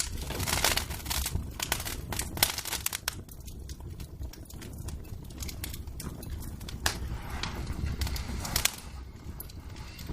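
Wood fire in a fireplace crackling, with irregular sharp pops and snaps over a low rumble.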